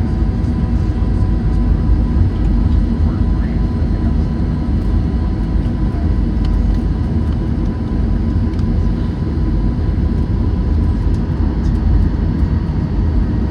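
Cabin noise inside a Boeing 737-800 rolling on the ground after landing: a steady low rumble from the engines and wheels, with a faint steady whine over it.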